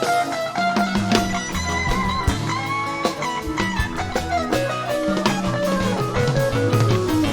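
Band music: a lead guitar line over bass and drums, at a steady level.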